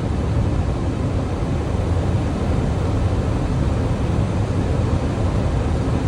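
Steady airflow and engine noise in the cockpit of a Boeing 737 MAX 9 on final approach just below decision height, a low rumble with hiss above it.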